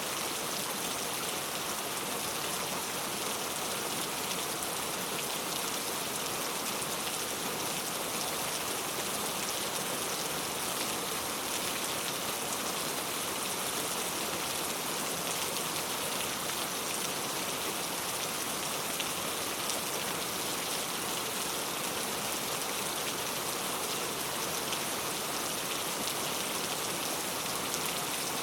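Heavy rain falling steadily, an even hiss of many drops with no lulls or thunder.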